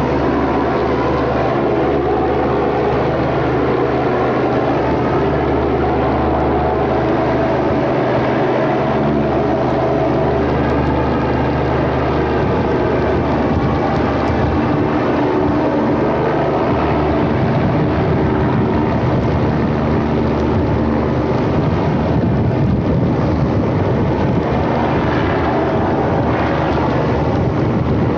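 Pressure washer spraying through a turbo nozzle: a loud, steady hiss of the water jet over a low, even machine hum.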